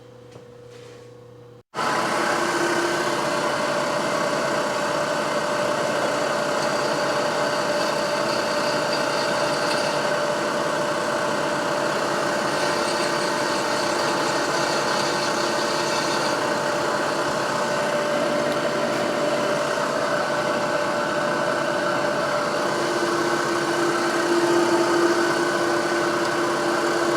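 Machine drill motor running steadily as it drills out a damaged head-stud hole in a Suzuki TS400 cylinder for a thread-repair insert. It starts suddenly about two seconds in and holds an even pitch throughout.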